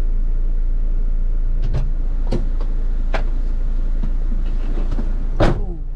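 Car engine idling, heard from inside the cabin as a steady low rumble, with a few light clicks and, about five and a half seconds in, a louder thump as the driver's door is shut.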